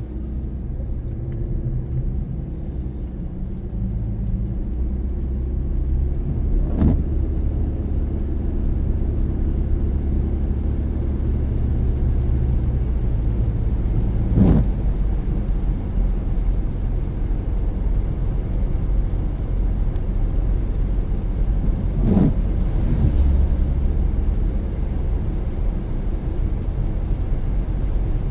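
Car driving on a wet road, with a steady low engine and tyre rumble. Three brief swishes come at even spacing, about every eight seconds, like windshield wipers on an intermittent setting.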